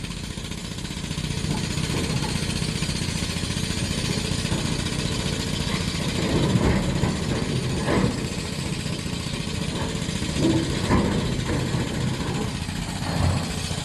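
Diesel engine of heavy construction machinery running steadily, with a few brief louder sounds over it about halfway through and near the end.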